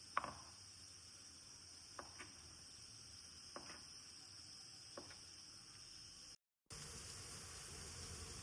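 Faint, steady high-pitched insect drone from the surroundings, with four light knocks about a second and a half apart, the first the loudest. The sound cuts out briefly near the end and resumes with an added low hiss.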